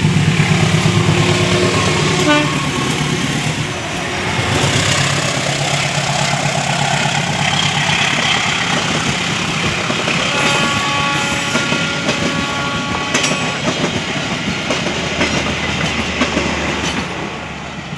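A diesel locomotive passing close by with its engine running hard, followed by a rake of passenger coaches rolling past, their wheels clacking over the rail joints. A steady ringing tone sounds for a few seconds around the middle.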